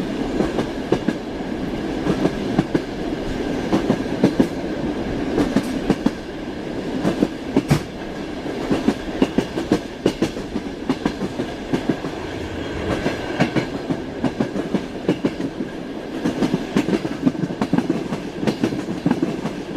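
Passenger train carriage heard from inside a compartment while under way: a steady rumble with the clatter and knocking of wheels over rail joints, the knocks coming in irregular clusters, and a faint steady whine above.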